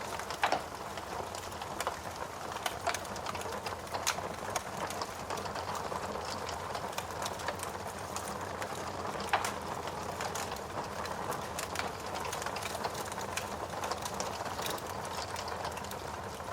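Wood fire burning in a fireplace: a steady hiss with frequent small crackles and a few louder pops of burning logs.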